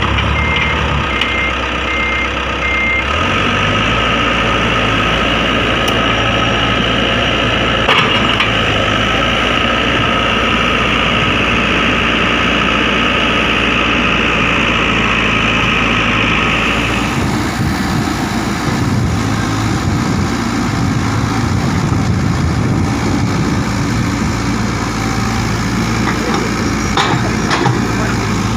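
Heavy diesel machinery (excavator and dump truck engines) running steadily, the engine note changing a few times. A high whine rides over it from a few seconds in until just past halfway.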